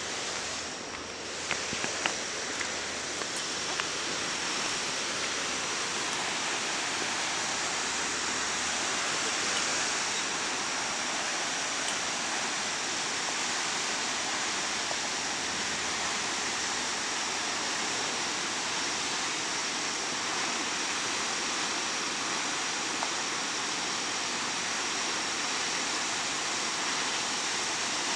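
Steady, even rush of falling water from a waterfall, with a few light clicks in the first seconds.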